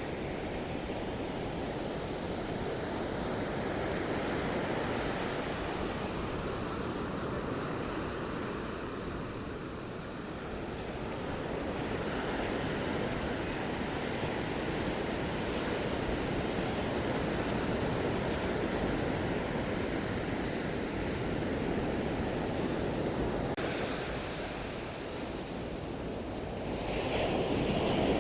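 Surf breaking and washing on a sandy beach, a steady rush that swells and eases, with a louder surge near the end. Wind buffets the microphone at times.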